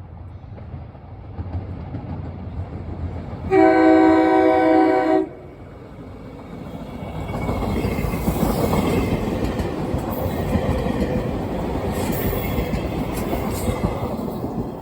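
SEPTA R5 commuter train sounding one horn blast of several tones, lasting about two seconds, a few seconds in. Then the train runs past with a steady rumble and clatter of wheels on the rails, getting louder a few seconds later.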